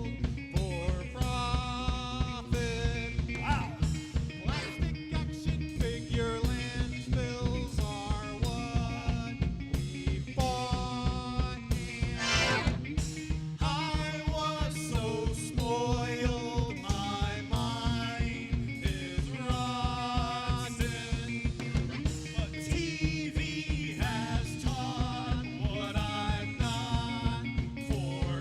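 A band playing an instrumental passage of an upbeat song, with a drum kit keeping a steady beat under a pitched melody line. There is a brief rising sweep about twelve seconds in.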